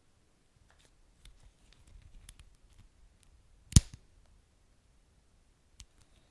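Wood fire crackling: scattered faint crackles, with one loud sharp pop about four seconds in and a smaller snap near the end.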